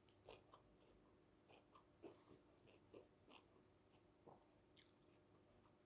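Faint, close-up chewing of a mouthful of food, with soft mouth clicks and small wet sounds scattered through.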